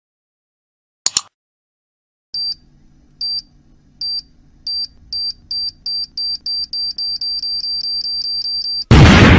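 A short double click, then a countdown-timer beep repeating faster and faster over a low hum, like a time bomb's timer, ending in a loud blast near the end.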